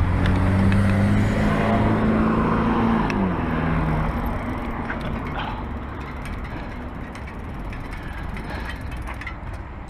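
A motor vehicle passing close by, its engine tone dropping in pitch about three seconds in as it goes past. Steady wind and road rush continues as the bike coasts downhill, slowly getting quieter.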